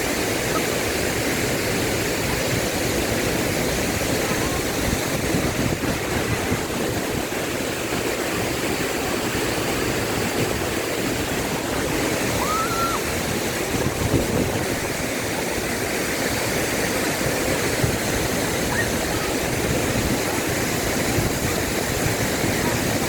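Water plunging down a tall, wide waterfall: a steady, dense rush with no let-up.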